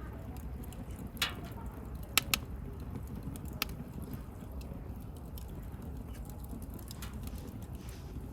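Wood campfire burning with a steady low rush, broken by a handful of sharp crackles and pops from the burning wood, the loudest a pair close together about two seconds in.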